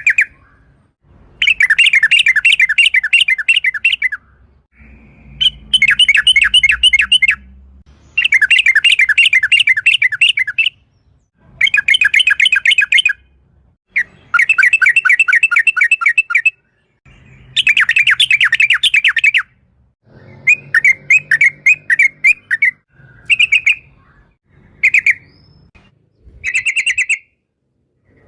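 Yellow-vented bulbul (trucuk) singing in loud bursts of fast, rapidly repeated chattering notes, each lasting about two seconds with short gaps between them. A few short single calls follow near the end.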